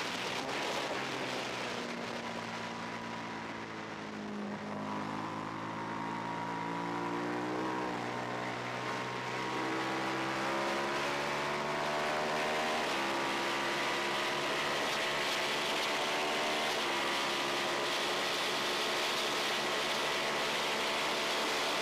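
Twin-cylinder race motorcycle engine heard onboard, over wind rush. Its revs fall for the first few seconds as the bike slows, then climb again, with sudden steps in pitch at gear changes in the second half.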